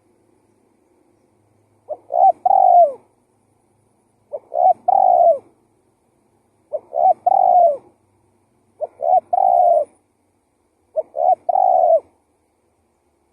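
Spotted dove cooing, five times at even spacing about two and a half seconds apart. Each phrase is a short clipped note followed by two longer mellow coos, the last one falling slightly.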